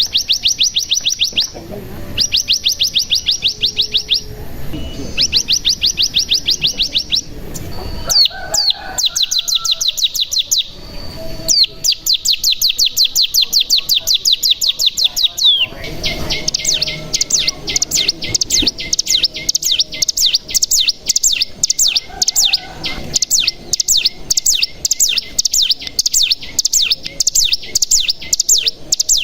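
Ciblek gunung (cigun) singing: rapid, high trilling phrases of a second or two each with short gaps, then, about halfway through, one long unbroken trill, the drawn-out 'ngebren' song.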